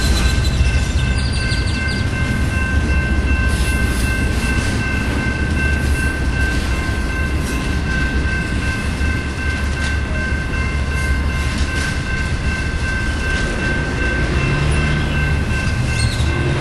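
BNSF double-stack intermodal train's well cars rolling past at close range: a steady rumble of wheels on the rails, with a constant high-pitched whine held over it.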